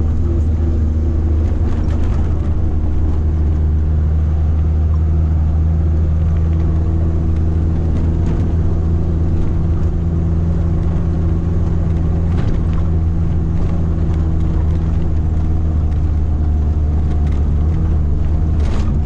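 Motor vehicle driving at a steady speed: an even, low engine drone with road noise, no change in pitch.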